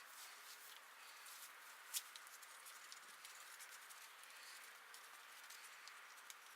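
Near silence: a faint hiss with scattered light clicks and taps, one slightly sharper click about two seconds in.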